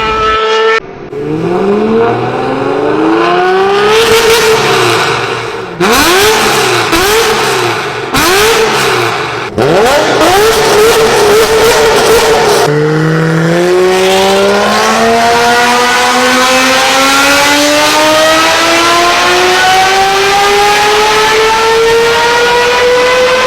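V12 supercar engines, one after another: a rev rising, then several quick throttle blips up and down, then one long steady pull with the engine note climbing for about ten seconds under hard acceleration.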